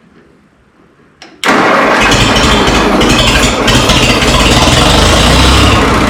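A click, then about one and a half seconds in the Minneapolis-Moline tractor's electric starter cuts in and cranks the engine, loud and steady, without it catching. The fuel valve has not been opened, so the carburetor is dry.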